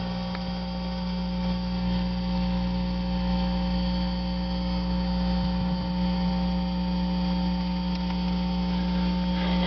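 A steady electrical hum with several fixed tones, unchanging throughout.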